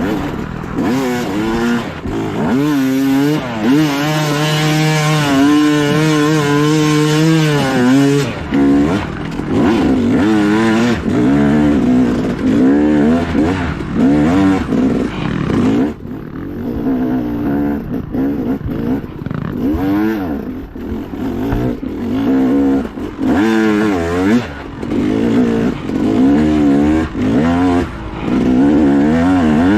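Dirt bike engine ridden hard over off-road terrain, the revs rising and falling constantly with the throttle, held steady for a few seconds about four seconds in.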